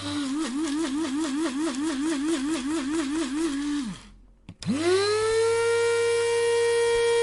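Electric coffee grinder motor running with a hum that wobbles in pitch about four times a second, then winding down just before the four-second mark. About a second later it spins back up quickly to a higher, steady whine.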